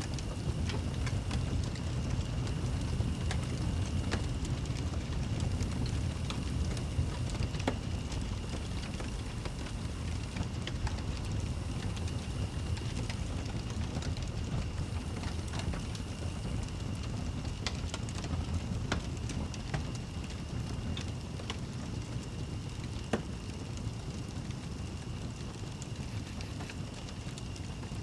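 Fireplace fire crackling, with scattered sharp pops, over a steady low rumble.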